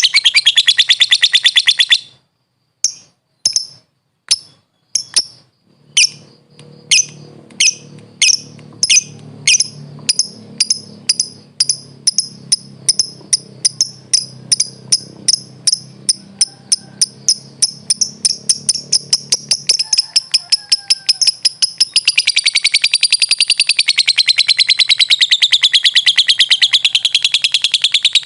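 Lovebird chattering in a rapid unbroken trill that breaks off about two seconds in; then single sharp chirps, widely spaced at first, come steadily faster into a quick run of chirps, and near the end the bird goes back into a long continuous rapid trill, the 'ngekek' that lovebird keepers prize.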